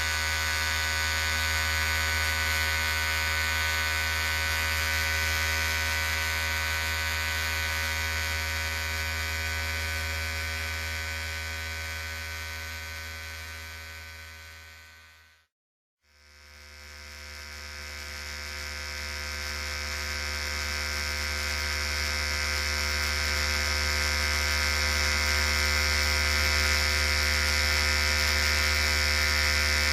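Electric hair clippers running with a steady buzz. About halfway through, the sound fades out to silence and then fades back in.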